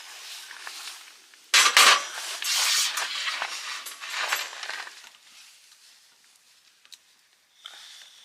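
Camp cookware and utensils being handled: clattering and scraping, with two sharp knocks about one and a half seconds in, dying down to faint handling sounds after about five seconds.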